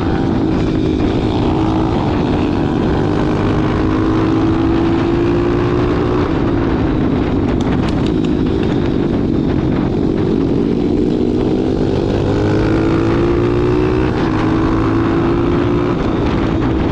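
Pit bike's small single-cylinder four-stroke engine running as it rides, its revs rising and falling gently, with a few brief clicks about eight seconds in.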